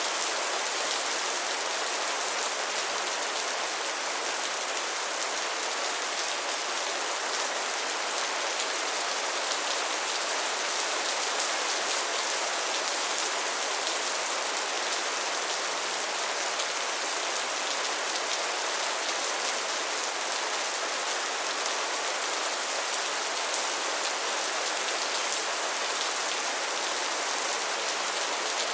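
Steady rainfall, an even hiss of drops without a break or change.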